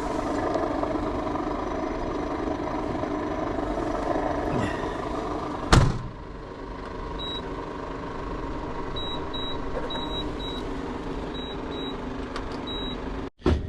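Washing machine running with a steady mechanical hum that does not sound right. A loud click comes about six seconds in and the running noise drops, followed by a run of short high beeps from its control panel.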